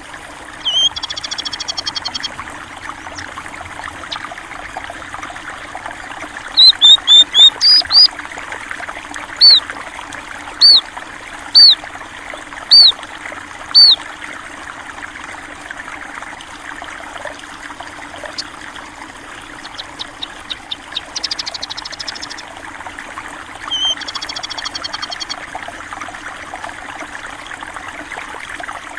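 Stream water trickling steadily, with small birds calling over it: a run of loud, short, arched whistled notes about one a second from about 7 to 14 seconds, and brief buzzy trills near the start and again near the end.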